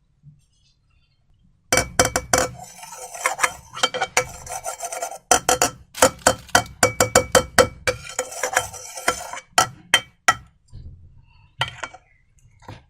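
Slime being worked: rapid sticky clicks and crackles that start about two seconds in, run in dense bursts until about ten seconds in, then give way to a few scattered clicks.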